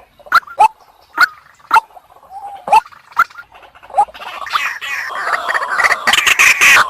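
Female white-breasted waterhen calling: short, sharp calls every half second or so, then a louder, dense run of overlapping calls from about four and a half seconds in.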